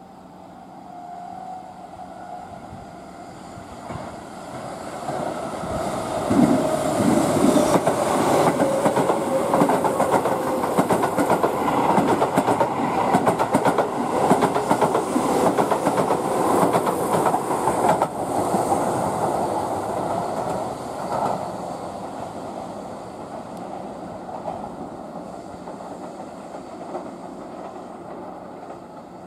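Keihan 8000 series limited-express electric train running through the station without stopping: a whine falling in pitch as it comes in, then the rumble and clickety-clack of its wheels building up over several seconds. It stays loud for about a dozen seconds as the cars go by, then fades as the train draws away.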